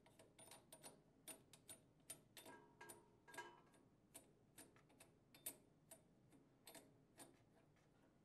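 Faint, irregular light clicks and metallic ticks, about two or three a second, some briefly ringing: the dispenser's mounting nut and lock washer being tightened onto the dispenser shank under the counter.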